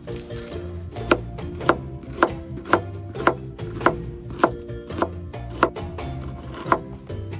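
Steady chopping: about eleven sharp strikes, roughly two a second, starting about a second in and stopping near the end.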